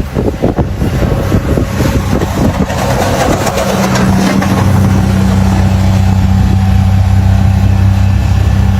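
Wind buffeting the microphone, then a motor vehicle's engine running steadily with a low hum from about four seconds in.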